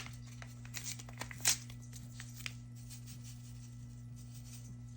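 Rustling and tearing of packaging as yeast is added to bread dough flour: a handful of short crackles in the first couple of seconds, the loudest about a second and a half in, over a steady low electrical hum.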